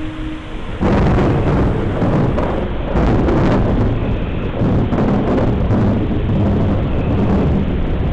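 Thunder: a sudden loud clap about a second in, with crackling strokes over the next few seconds, rolling on into a long low rumble.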